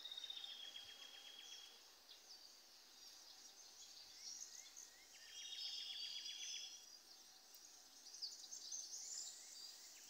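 Weaver birds chattering faintly: two runs of rapid clicking chatter, one at the start and one about halfway through, with higher twittering between and near the end.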